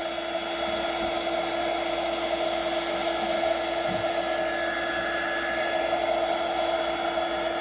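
Electric heat gun running steadily, its fan blowing with a steady hum and whine, as it heats the blower's plastic tube to soften it.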